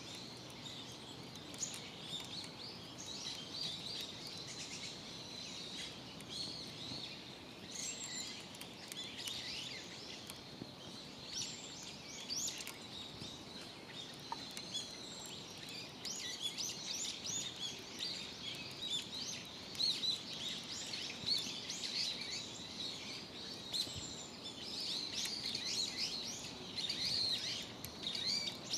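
Several small birds chirping and calling over one another in a continuous chorus of short, high chirps, busiest in the second half, over a faint steady background hiss.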